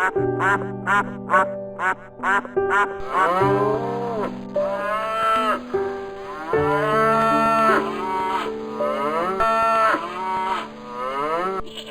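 Duck quacking in quick short calls for the first few seconds, then a cow mooing in several long, drawn-out calls, over background music.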